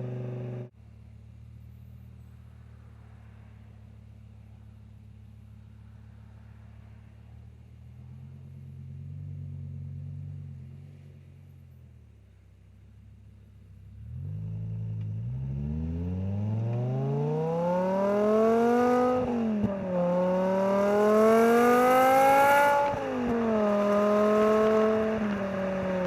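BMW E60 M5's V10 through an aftermarket exhaust: after a sudden drop in level about a second in, it runs with a quiet steady drone. It then accelerates hard from about halfway, the revs climbing, dipping at two upshifts and climbing again, and settles to a steady cruise near the end.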